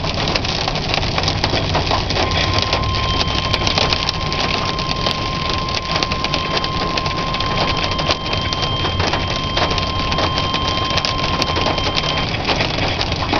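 Hail pelting a vehicle's roof and windows as a dense, loud crackle of clicks, heard from inside the vehicle. A steady weather-radio alert tone sounds over it for about ten seconds, starting about two seconds in.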